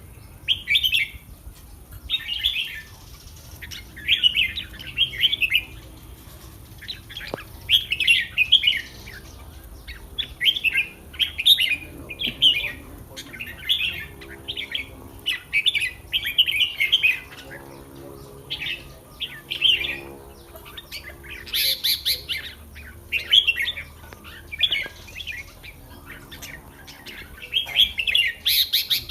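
Red-whiskered bulbul singing short, bright phrases over and over, each about a second long with brief gaps between.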